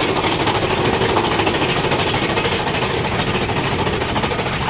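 Mine-train roller coaster cars rattling along the track at speed, a fast steady clatter heard from onboard.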